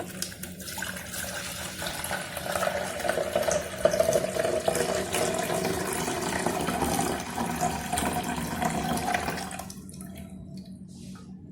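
Water being poured into the water reservoir of a Morphy Richards Primero drip coffee maker, a steady splashing pour that stops about ten seconds in as the reservoir is filled.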